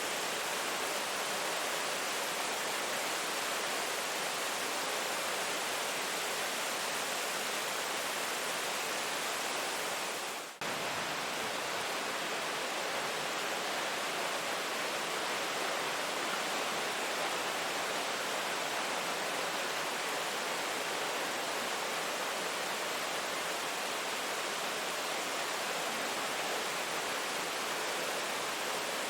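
Steady rain falling, an even hiss with no distinct drops standing out. About ten seconds in it briefly fades down and comes straight back.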